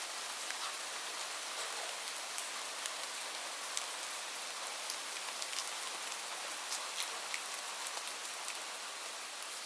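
Steady rain falling, a constant hiss with scattered individual drops ticking on a hard surface.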